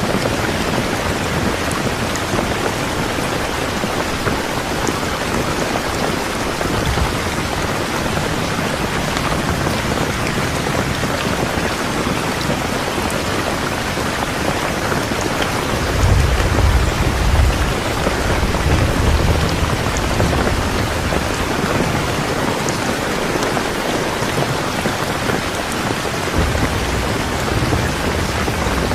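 Steady rain falling, an even hiss of drops on surfaces. About halfway through, a low rumble of thunder swells for several seconds, with a fainter rumble near the end.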